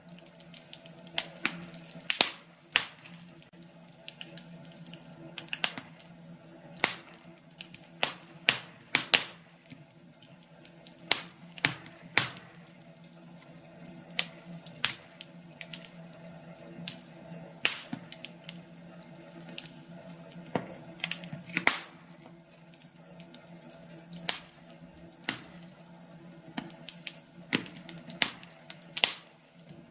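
Wood fire crackling: irregular sharp pops and snaps of burning logs, some loud, over a faint steady hiss.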